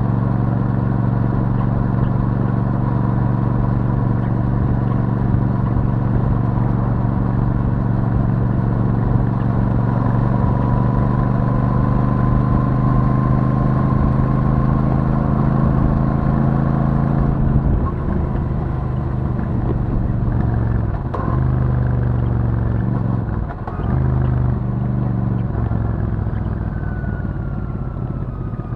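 Royal Enfield Super Meteor 650's parallel-twin engine through the stock exhaust, running at a steady cruise. About two-thirds of the way in the throttle is closed and the note drops to an uneven, lower-rev sound as the bike slows.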